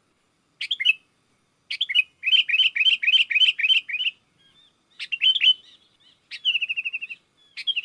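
Sooty-headed bulbuls calling: short, bright chirping phrases, a fast run of about four notes a second a couple of seconds in, and a quicker trill near the end.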